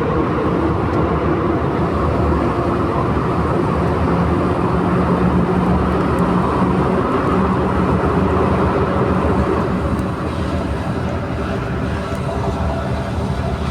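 Rubber-tyred Santiago Metro NS-93 train running between stations, heard from inside the car: a steady loud rumble with a motor hum that fades about ten seconds in.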